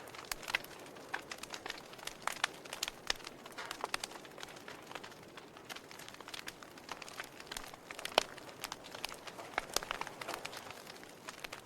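Wood fire burning in a fireplace, crackling with irregular sharp pops and snaps over a soft hiss; one louder pop about eight seconds in.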